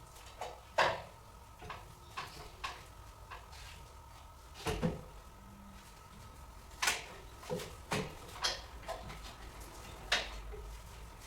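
Irregular knocks, clicks and light clatter of objects being handled and set down, a dozen or so sharp strikes at uneven intervals, over a faint steady hum.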